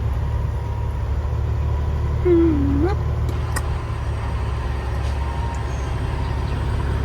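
Peterbilt 379 dump truck's diesel engine idling steadily, heard from inside the cab as a low rumble. The engine is worn out and burning oil, which the driver says sounds bad.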